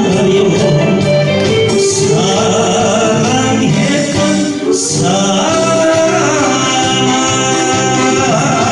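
Korean popular song performed by a male singer with instrumental accompaniment, the voice gliding between held notes.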